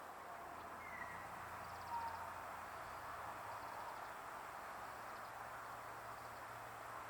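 Outdoor ambience: a steady hiss with two brief, faint bird chirps, the first about a second in and the second about a second later.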